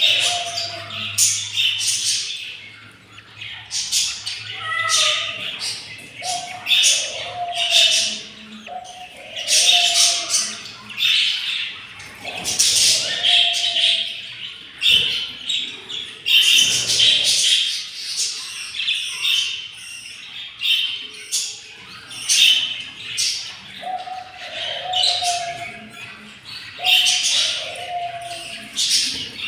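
Budgerigars squawking and chirping in and around the nest box: short, harsh calls repeated about once a second, mixed with brief whistled notes.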